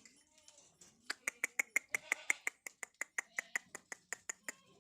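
A rapid, even series of sharp clicks, about seven a second, starting about a second in and stopping near the end.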